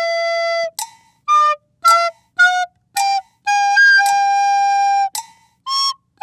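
Background music: a playful melody on a flute- or whistle-like wind instrument, mostly short detached notes. Two notes are held longer, one at the start and one about three and a half seconds in.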